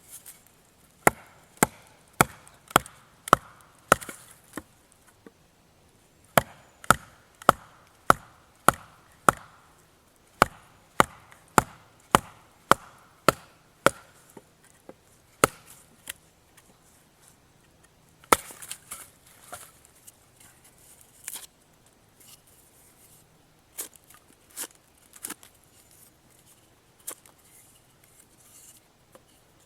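Batoning: a wooden baton striking the spine of a carbon-steel Old Hickory Kephart knife to drive it through a piece of wood. Sharp knocks come in steady runs of six or seven, a little under two a second, then more scattered single strikes in the second half.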